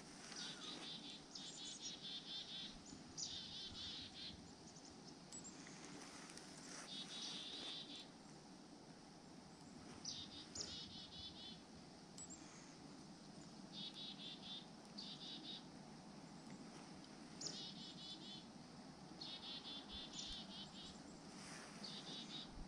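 A small songbird repeating short, high trills at irregular intervals every second or two, faint over a steady low outdoor background.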